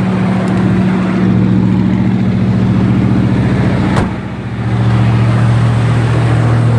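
Ford Galaxie's engine idling steadily while warming up after a cold start in about 19-degree cold, and doesn't sound too bad. A sharp click comes about four seconds in, and the engine sound dips briefly after it.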